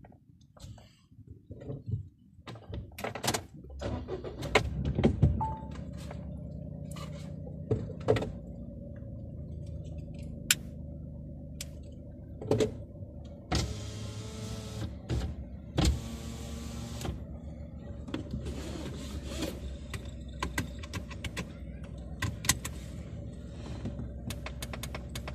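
Inside a stationary car: scattered clicks and knocks, then a steady engine idle hum sets in about four seconds in and holds, with two short hissing bursts about halfway through.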